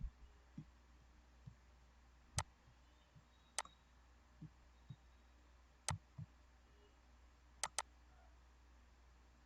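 Near silence over a faint steady low hum, broken by a handful of sharp clicks, two in quick succession near the end, and a few soft low knocks.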